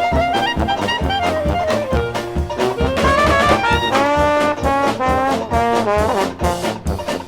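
Dixieland jazz band playing an up-tempo instrumental with a steady beat, brass to the fore, from a 1978 vinyl LP. About three seconds in the horns slide up into long held ensemble notes.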